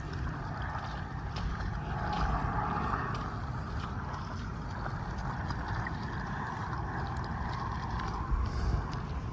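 A swarm of mosquitoes whining around the head, a steady wavering hum that rises and falls slightly in pitch, over a low rumble of wind on the microphone.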